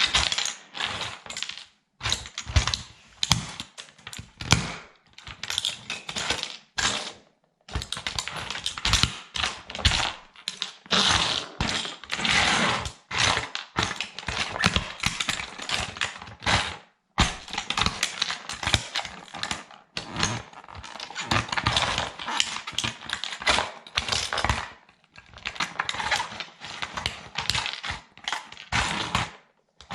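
Plastic toy military truck crackling and snapping as it is crushed underfoot by a sandal, in dense runs of cracks broken by a few short pauses.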